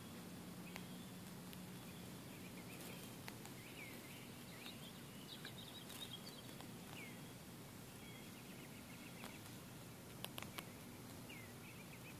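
Faint outdoor ambience with distant birds calling: short down-slurred chirps every few seconds and a couple of brief trills, with a few light clicks near the end.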